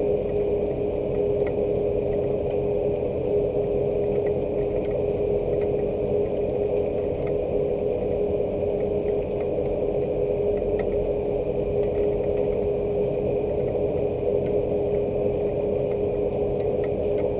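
Steady rain with faint scattered drip ticks, under a constant machine hum that holds one steady tone.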